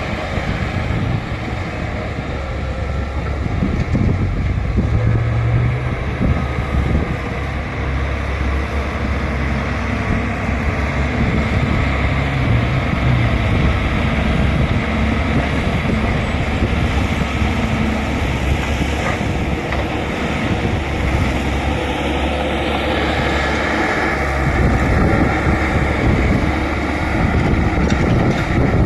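Bulldozer's diesel engine running steadily under load as it works the ground, getting a little louder about four seconds in.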